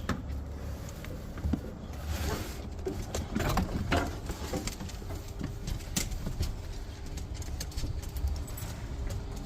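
Dogs playing together: an irregular patter of paws and short scuffles over a low steady rumble.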